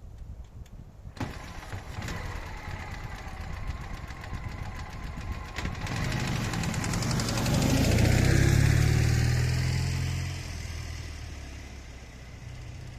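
Ural motorcycle's flat-twin engine drawing near, loudest about eight to ten seconds in, then moving away and fading, its pitch dropping as it goes.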